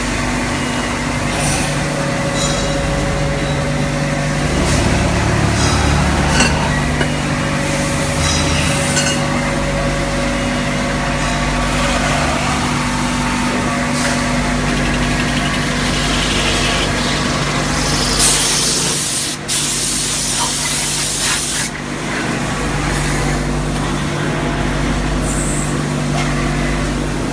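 Multi-axis CNC drilling, milling and tapping machine running, a steady machine hum with several held tones. About eighteen seconds in, a sharp hiss lasts about a second and a half and cuts off suddenly.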